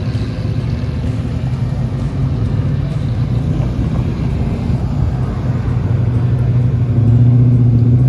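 Car engine and exhaust running steadily with a low drone, growing louder about seven seconds in.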